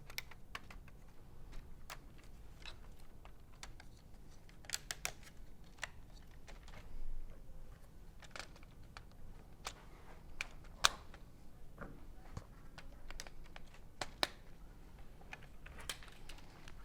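Irregular small plastic clicks and clacks of LEGO Technic parts being handled and pressed together, with a few clicks close together about five seconds in and a sharper one about eleven seconds in.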